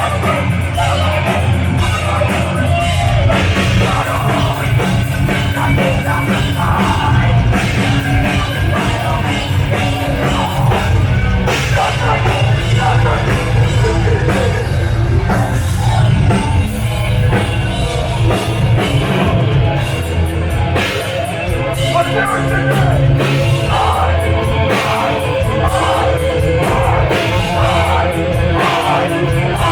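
Live heavy metal band playing loud: distorted electric guitars, bass and fast drums, with vocals.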